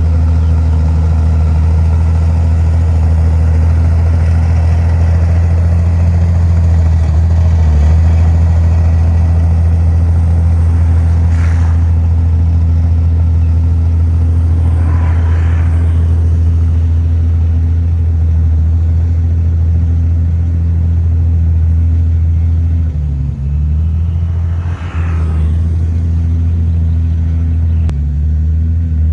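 Large diesel engine of heavy earthmoving machinery running steadily, its pitch dipping briefly a couple of times near the end.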